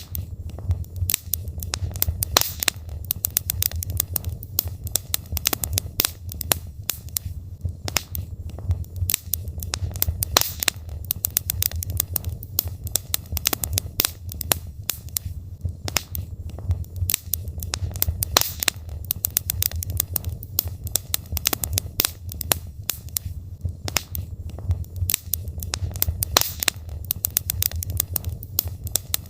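Wood logs burning in a fireplace, crackling and popping irregularly several times a second over a steady low rumble of the flames.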